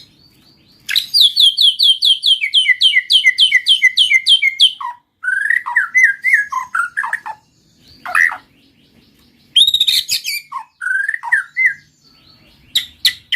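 White-rumped shama and canary singing: a fast run of evenly repeated notes for about four seconds, then a series of shorter whistled phrases broken by brief pauses.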